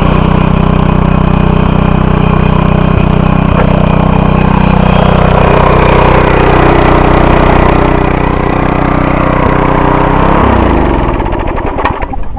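Front tine tiller's 4.75 hp Briggs & Stratton single-cylinder engine running steadily, then shut off about ten and a half seconds in and winding down to a stop.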